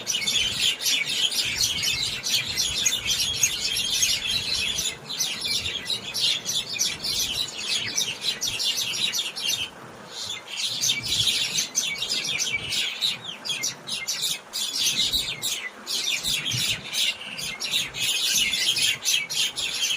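A flock of many small birds chirping densely and continuously, with a brief lull about halfway through.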